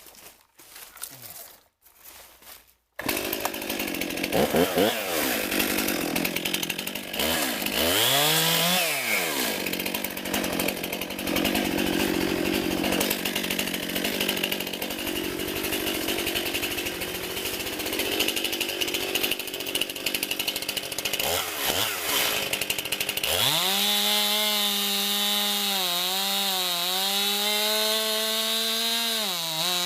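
Gas chainsaw cutting through a storm-felled tree trunk. It starts suddenly about three seconds in, revving up and down through the cut. Near the end it holds a high steady whine that dips briefly a few times under load.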